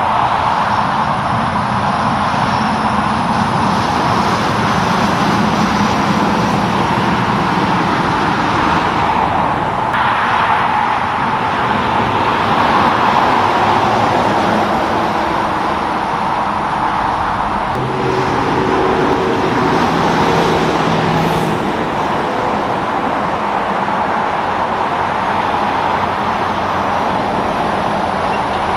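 Steady highway traffic: the tyre noise and engines of passing cars and trucks, with one vehicle's engine hum standing out for a few seconds about two-thirds of the way through.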